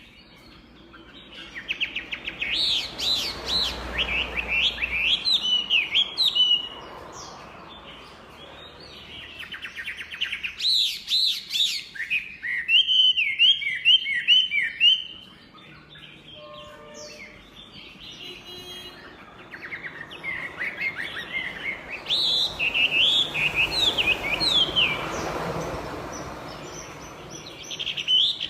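Chinese hwamei singing: three loud bouts of rapid, varied whistled phrases with short pauses between them.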